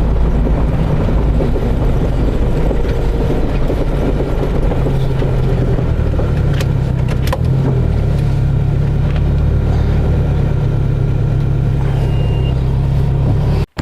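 A car driving at low speed, with a steady low engine and road rumble. It cuts off suddenly near the end.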